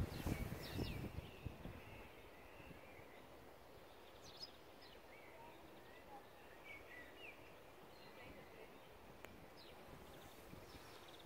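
Quiet outdoor ambience with small birds chirping at intervals, short high calls scattered throughout. A low rumble in the first second or so dies away.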